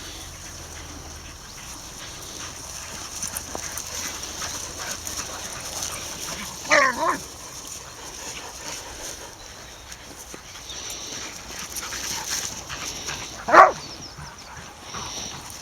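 A dog barking: a quick double bark about seven seconds in, and one more short bark near the end.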